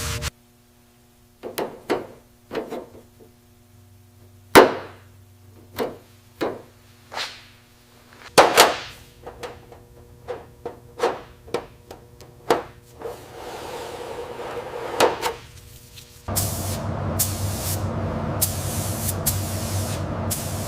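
Hand-tool work on the car: scattered sharp knocks and taps, about a dozen, irregularly spaced. About three quarters of the way in, a compressed-air spray starts up and hisses in short, repeated pulses.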